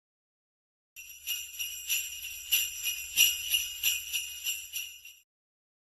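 Jingle bells shaken in an irregular jingling for about four seconds, starting about a second in and cutting off suddenly.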